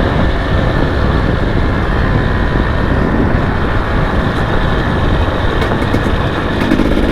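Enduro dirt bike engine running steadily while riding a trail, mixed with heavy wind rush on the microphone.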